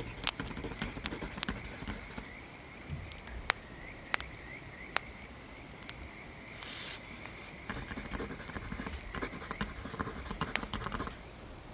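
Wood fire crackling, with sharp irregular pops, and stretches of a pencil scratching on paper over the second half.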